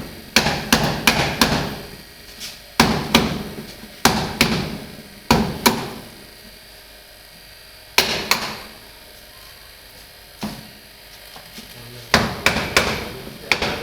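Sharp knocks and taps on a refrigerator's top panel while it is being opened, coming in short bursts of several blows with pauses between, and a longer quiet stretch in the middle.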